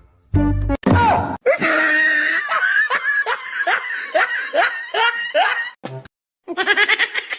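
Laughter: a run of about a dozen quick 'ha' sounds, each falling in pitch, about three a second, after a brief snatch of music at the start.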